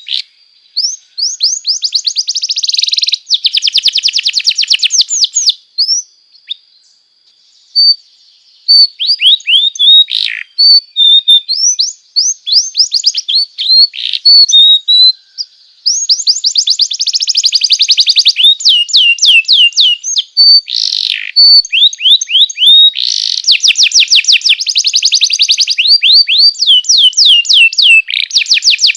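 Domestic canary singing: fast trills of rapidly repeated down-slurred notes, one phrase after another, broken by short steady high whistles and a brief pause partway through.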